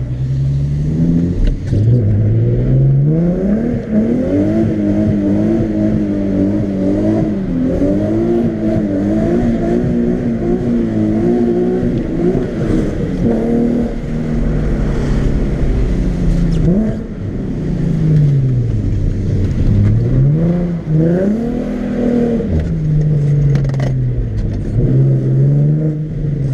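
Nissan 370Z's 3.7-litre V6 driven hard, its revs climbing and dropping again and again over the stretch, with brief falls between pulls.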